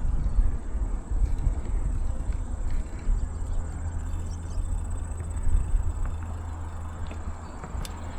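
Uneven low rumble of wind buffeting the microphone and bicycle riding noise, with a faint steady high insect-like tone behind it.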